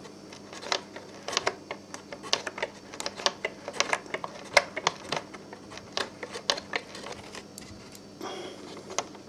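Irregular light metallic clicks and ticks, a few a second, as a hand tool works the adjustment nut off the metal plate that secures the clutch inside a Bell & Howell 8mm projector.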